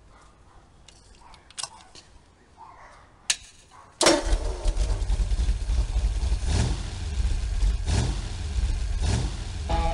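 A few faint clicks, then about four seconds in a car engine starts abruptly and runs loud and deep, revved three times, each rev a quick rise and fall in pitch.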